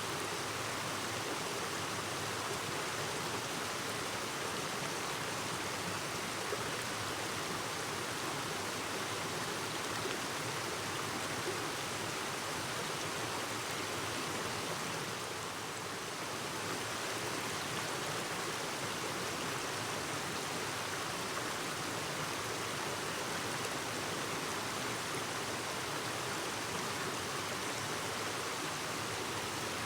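Clear mountain stream babbling steadily over rocks, a continuous even rush of water.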